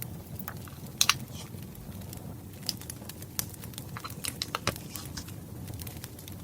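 Wood fire crackling: irregular sharp pops and snaps over a steady low rumble of flames, with a loud double pop about a second in.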